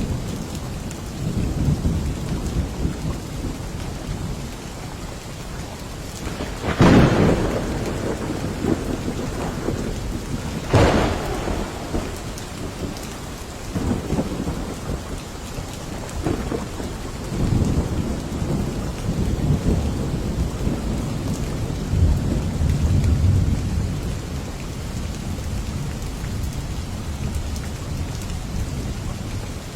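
Steady rain with thunder: two sharp thunderclaps about 7 and 11 seconds in, and low rumbles of thunder swelling near the start and again in the second half.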